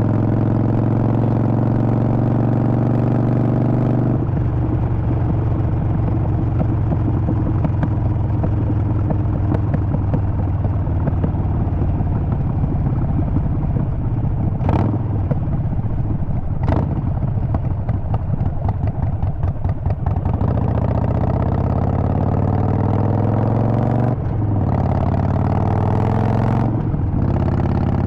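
Harley-Davidson Sportster 48's air-cooled V-twin engine running: a steady note at first, then rougher and denser for a long stretch with two sharp clicks in the middle, then the engine note falling gradually with two brief breaks near the end.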